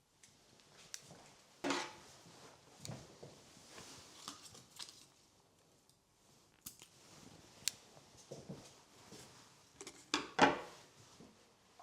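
Household objects being handled: scattered small clicks and knocks, with two louder rustling, scraping bursts about two seconds in and again near the end.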